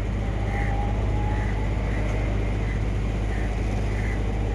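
Steady low rumble with faint, short high-pitched sounds repeating about every second.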